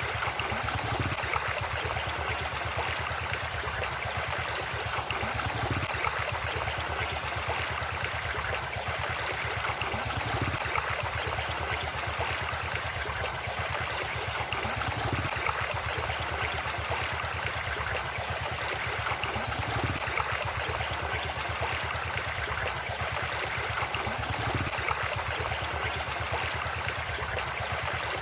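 River water flowing steadily over stones, a constant rushing wash.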